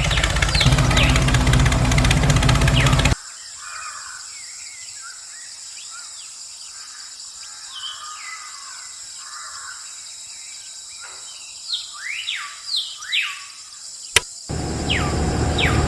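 A small motor runs with a steady hum, then cuts off abruptly about three seconds in. Birds then chirp with quick falling calls over quiet outdoor background noise. A sharp click and a louder steady noise come back shortly before the end.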